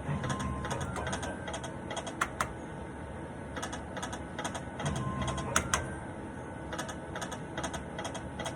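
Poker machine clicking and ticking as its reels spin and stop, with a low swell at the start of each spin, twice.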